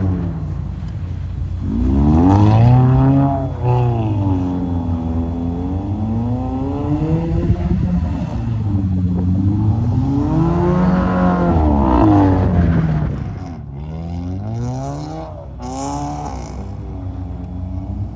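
Subaru Impreza's flat-four engine revving up and falling back several times as the car is drifted on snow.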